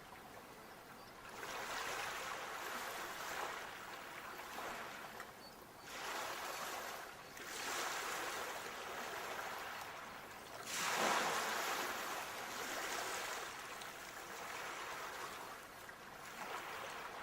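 Sea waves washing ashore, surging and falling back every few seconds, the biggest wave breaking about eleven seconds in.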